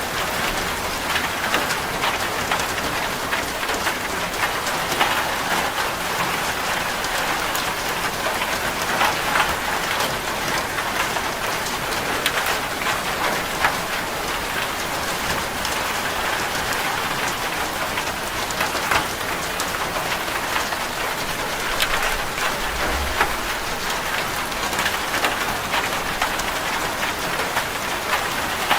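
Steady rain drumming on a corrugated zinc roof, a dense patter with individual drops ticking sharply on the metal.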